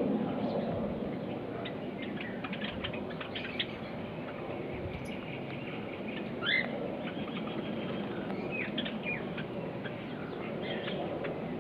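Zebra finches calling: many short, high chirps at irregular intervals, with one louder sweeping call about six and a half seconds in, over a steady low hiss.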